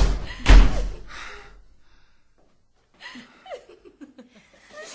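Two heavy thuds about half a second apart, like a door being slammed or banged, dying away over about a second. A faint voice murmurs near the end.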